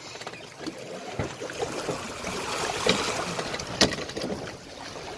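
Water sloshing and splashing along the hull of a sailboat moving slowly through the sea, with two sharp knocks, one about a second in and a louder one near four seconds.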